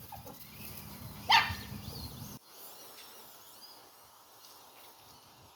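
A dog barks once, about a second and a half in, over a low rumble that cuts off suddenly a little later.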